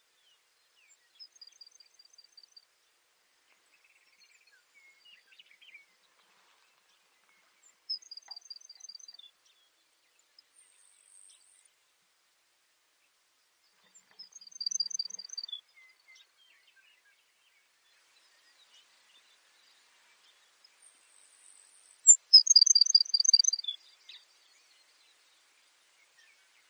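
Baird's sparrow singing: four songs several seconds apart, each a short high trill of rapid repeated notes, the last one the loudest.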